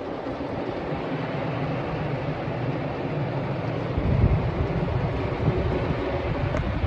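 Automatic car wash heard from inside the car: water spray drumming on the body, sounding like rain. It grows louder, with a deeper rumble swelling about four seconds in.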